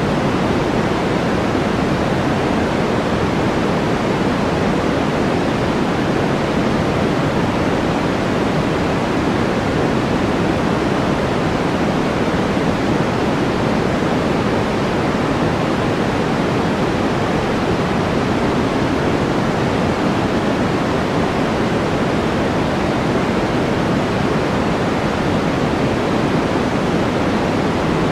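Steady white-noise track played as a study background: an even, unchanging rush with no breaks, deeper than a bright hiss.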